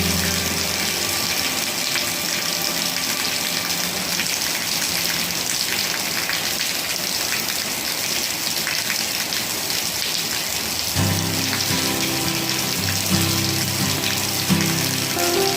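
Rain falling steadily. Music comes in about eleven seconds in.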